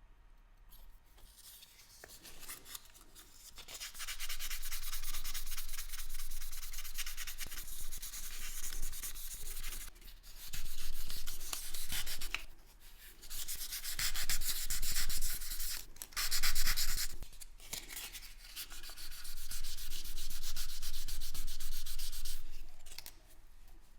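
Rapid back-and-forth rubbing strokes on a small hard surface, in several stretches of a few seconds each with short pauses between, starting about four seconds in.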